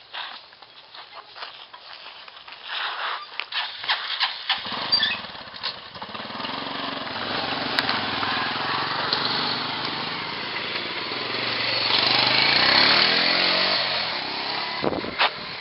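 Scattered clicks and knocks, then about four and a half seconds in a motorcycle engine starts and runs. Its pitch shifts up and down as it revs, grows loudest a few seconds before the end, then fades.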